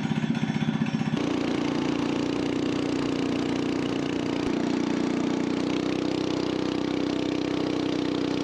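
Coleman BT200X mini bike's single-cylinder engine: a low, pulsing putter for about the first second, then running steadily at higher revs, with a slight shift in pitch about four and a half seconds in.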